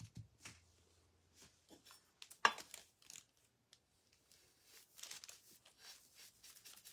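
Light handling noises of painting tools and materials on a work table: scattered small clicks and rustles, with one sharper tap about two and a half seconds in.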